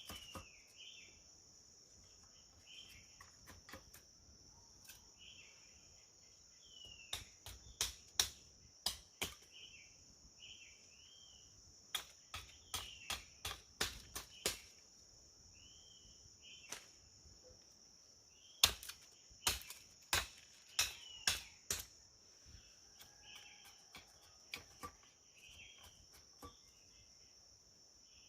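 Runs of sharp knocks, five or six at a time about half a second apart, over a steady high insect drone and a bird's short chirps repeating about once a second.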